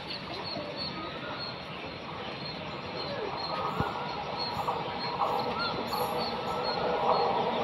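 Steady rumble of an approaching electric locomotive-hauled express train, growing gradually louder as it nears on the next track, with short bird chirps over it.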